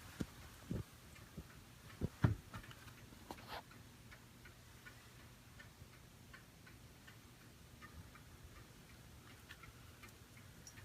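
A clock ticking faintly in a quiet room, with a few louder knocks in the first two and a half seconds.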